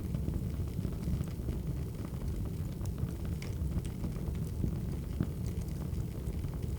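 Wood fire burning: a steady low rumble with scattered, irregular crackles and pops.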